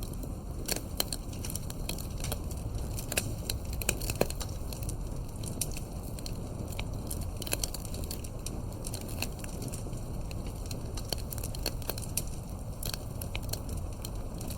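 Wood fire crackling: irregular sharp pops and snaps over a steady low rumble of the burning fire, the pops busiest in the first few seconds.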